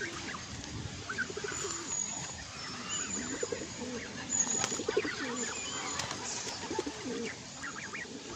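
Pigeons cooing again and again, with thin, high bird chirps over them.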